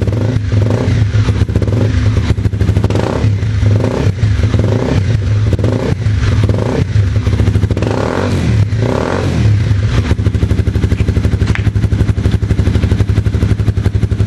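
Honda CBR250R's single-cylinder engine running through a carbon aftermarket exhaust, a steady, rapid pulsing note. It is blipped briefly several times in the first ten seconds, then settles to an even idle.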